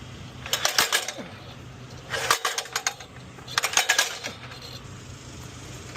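Metal clattering and rattling in three short bursts about a second apart, over a steady low hum.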